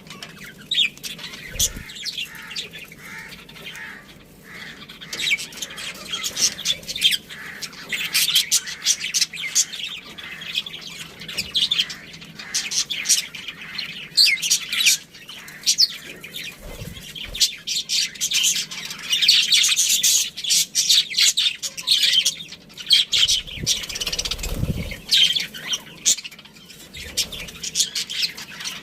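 Budgerigars chirping and chattering continuously in quick, overlapping short calls, with a few low thumps.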